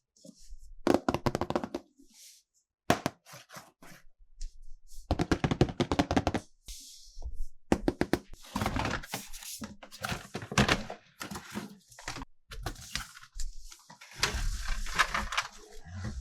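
Plastic toys and packaging being handled: an irregular run of clicks, knocks and thunks, with bursts of rustling in between.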